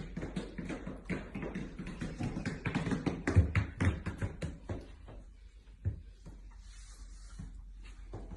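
A quick run of taps and knocks for about four seconds, thinning to a few scattered knocks, over a low hum.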